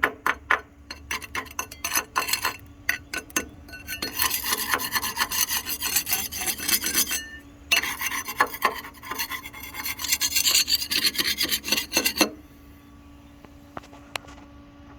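Slag being cleaned off a fresh stick weld on a steel truck frame: a few sharp chipping-hammer knocks, then a wire brush scrubbing the bead in rapid strokes. The scrubbing stops about twelve seconds in.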